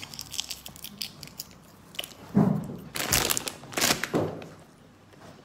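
Crunching and chewing of whole shell-on roasted shrimp: a run of small crisp cracks from the shells, then a few louder crunches between about two and four seconds in.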